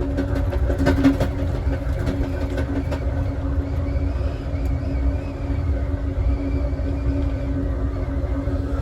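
Passenger train car rolling along the track: a steady low rumble with a constant hum, and a few sharp clicks in the first second or so.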